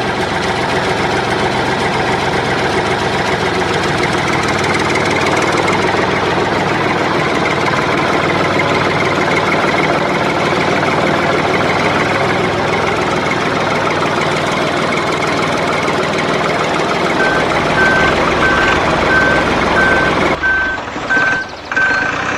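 Small motor of a miniature DIY tractor running steadily. Near the end a high electronic beep repeats a little under twice a second.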